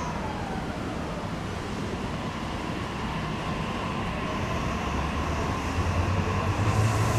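A 15-car JR Tokaido Line electric commuter train pulling in along the platform. Its running noise grows slowly louder, with a low rumble building near the end, and a falling whine fades out within the first second.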